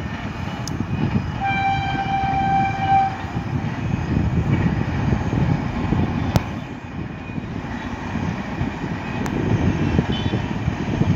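Distant passenger train running past with a steady low rumble. Its locomotive horn sounds once, a single held note lasting about a second and a half, starting about a second and a half in.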